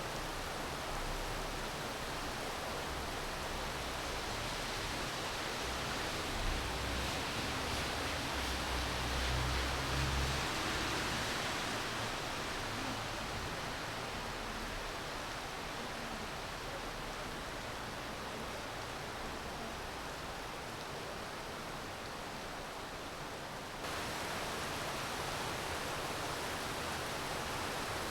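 Steady rainfall, an even hiss. A low rumble swells and fades between about six and eleven seconds in, and about twenty-four seconds in the sound steps abruptly louder and brighter.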